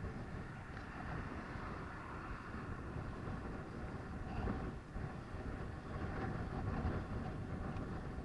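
Steady rumble of wind and road noise heard from a moving bicycle, with traffic noise mixed in.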